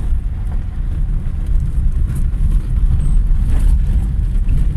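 Car driving along a road, its engine and tyre noise heard from inside the cabin as a steady low rumble.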